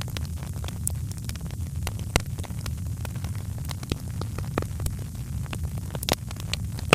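Wood fire crackling in a fireplace: a steady low rumble of the burning fire with scattered sharp pops and snaps, a few louder ones close together near the end.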